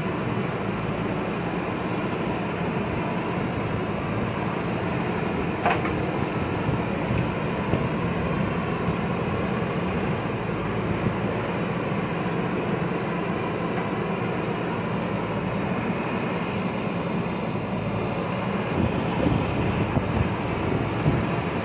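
JCB backhoe loader's diesel engine running steadily under load while digging, with a sharp knock about six seconds in and a few more knocks near the end.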